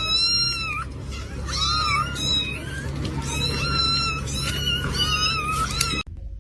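A cat meowing repeatedly, a string of high-pitched calls about one a second, cut off abruptly just before the end.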